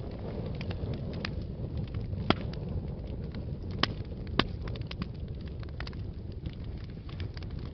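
Wood fire burning in a fireplace: a steady low rumble of flames with scattered crackles and pops, three of them sharper and louder a little after two seconds in and around four seconds in.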